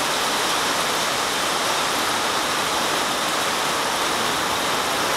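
Heavy rain pouring down in a thunderstorm, a steady even hiss with no thunder heard.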